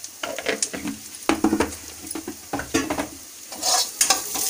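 Onion and spice masala sizzling in hot oil in a kadhai while a steel spatula stirs and scrapes it, with repeated scrapes and taps against the pan. The stirring grows busier and louder in the last second.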